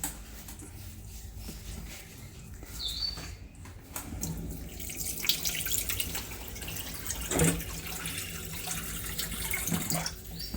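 Water running from a tap, growing stronger about four seconds in, with a few small clicks and knocks.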